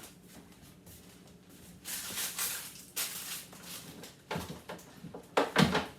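Handling noises from taking food containers and packaging out of a refrigerator: short rustles about two and three seconds in, then clunks, the loudest near the end.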